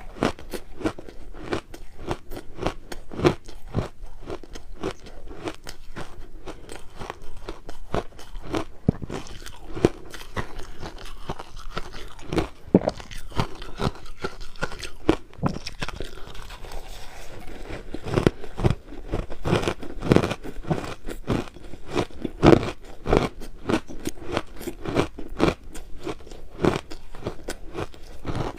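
Close-up crunching and chewing of crushed ice: a rapid, uneven run of sharp crunches, several a second, with louder bites now and then.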